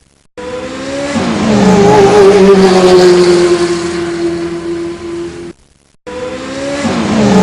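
Car engine revving up and holding steady at high revs, cut off abruptly and then repeated once from the same rise, like a looped sound clip.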